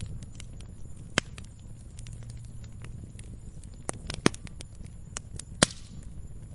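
Log fire crackling in a fireplace: a steady scatter of small sharp cracks over a low rumble of burning, with three louder pops, about a second in, a little past four seconds and a little past five and a half seconds.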